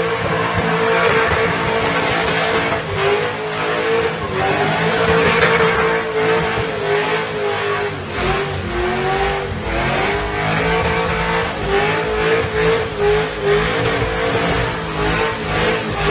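A car drifting: the engine held at high revs while the tyres squeal in a wavering tone that rises and falls throughout.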